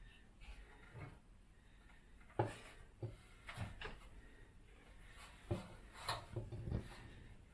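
Irregular knocks and clunks of a cast iron skylight and its glass being handled and worked back into the roof opening, the sharpest knock about two and a half seconds in and a cluster near the end.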